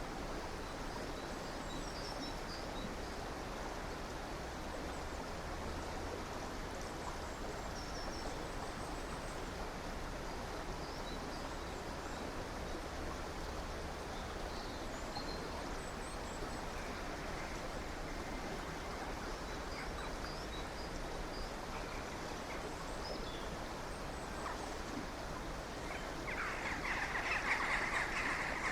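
A stream running steadily, with small birds chirping faintly now and then. Near the end a louder, rapid bird call lasting about two seconds rises over the water.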